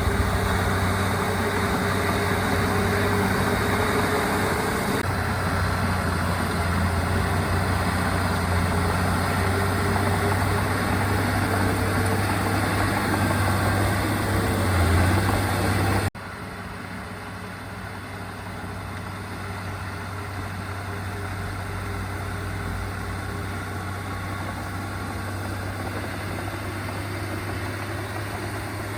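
Heavy-equipment diesel engine running steadily with a low drone. About halfway through the sound cuts abruptly and carries on quieter.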